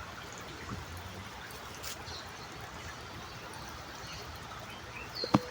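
Faint steady background noise of a rural yard, with a few soft short chirps and one sharp click near the end.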